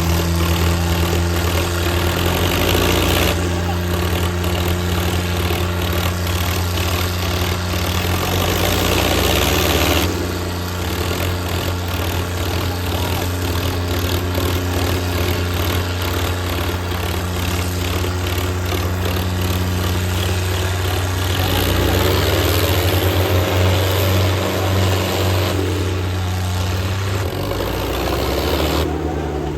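Tractor engines running hard and steadily, as in a tractor tug-of-war pull, rising in pitch for a few seconds a little past two-thirds through.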